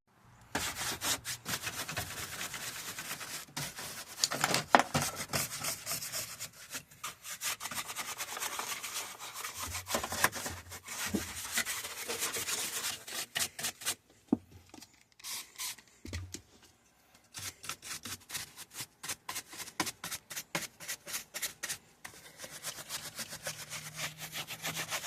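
Rapid, irregular rubbing strokes, repeated over and over, stopping abruptly twice and starting again.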